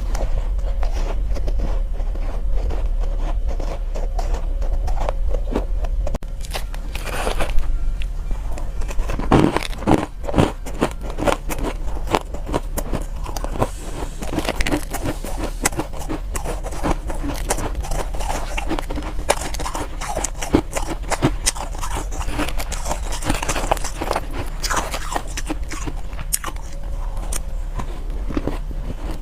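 Close-up bites and chewing of soft, powdery ice, with dense crunchy crackling that comes heavier in clusters about a third of the way in.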